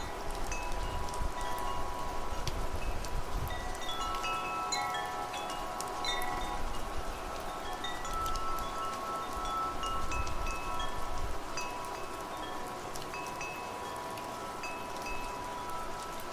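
Wind chimes tinkling at random, their struck tones ringing on and overlapping, over a steady hiss of rain. Low gusts of wind rumble in the first few seconds and again around ten seconds in.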